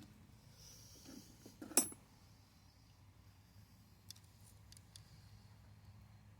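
Faint metallic clicks and clinks of hand tools and chain parts being handled while a pit bike chain is fitted: one sharper click about two seconds in, then a few lighter ticks a couple of seconds later.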